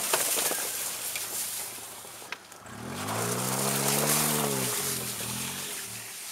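1990 Pontiac Firefly's small three-cylinder engine revving up and then dropping back about three seconds in. Before that there is a hissing rush of chained tyres on snow and ice, with a few sharp clicks.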